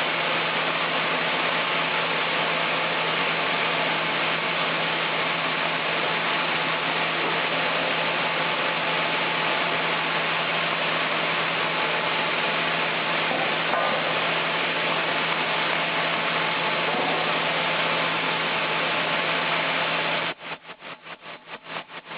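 Sawmill machinery running with a steady noise and a constant hum. A little before the end it switches abruptly to a rapid, even pulsing, about eight beats a second.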